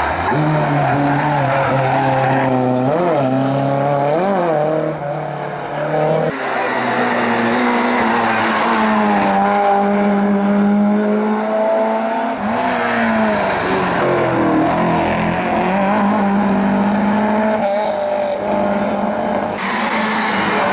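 Race-car engines on a hillclimb, revving up and dropping back through the gears, with some tyre squeal. The engine sound changes abruptly a few times, about 6 and 12 seconds in and again near the end, as one car gives way to another.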